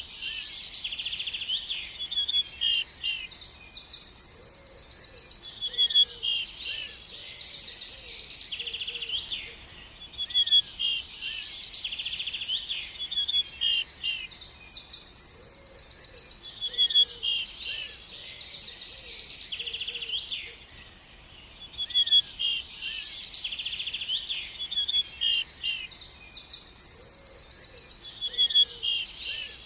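A songbird singing a long, rapid song of high trills and chirps, the same phrase coming back about every ten seconds with brief pauses between.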